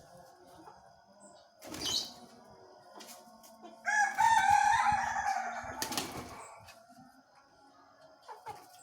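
A loud, drawn-out bird call lasting about two and a half seconds, holding its pitch and then sliding down toward the end. A few short sharp knocks come before and after it.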